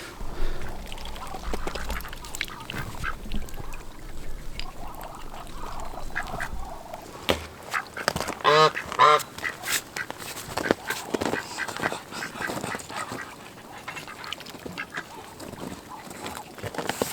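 Domestic ducks quacking, with a quick run of loud calls about eight and a half seconds in and fainter calls elsewhere, among scattered short knocks and clicks.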